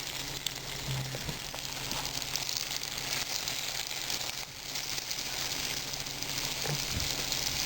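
Sunflower seeds sizzling and crackling in a frying pan over a burning log fire, a steady hiss with many fine crackles.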